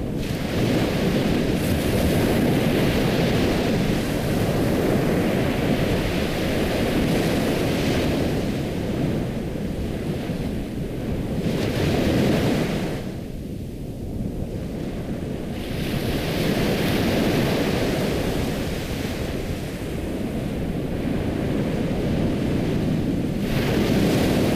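Ocean surf: waves rushing in and washing back in two long swells, with a lull between them about halfway through.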